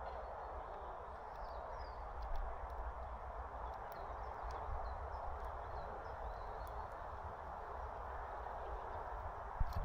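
Small birds at a seed feeder: a few faint chirps and light ticks of pecking, over a steady outdoor background hiss.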